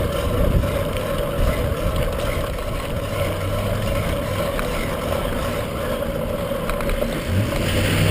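Steady wind rumble and road noise picked up by a bicycle-mounted camera while riding, with a low engine-like hum coming and going twice.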